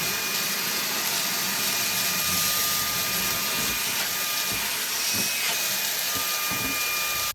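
Ryobi One+ 18V cordless hand vacuum running steadily with a flexible hose attachment, sucking up spilled bird seed. It makes an even rushing hiss with a steady high motor whine.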